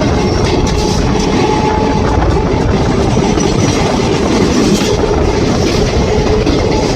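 Indian Railways electric train running on the rails: a steady loud rumble with wheels clacking over the rail joints and a faint steady whine underneath.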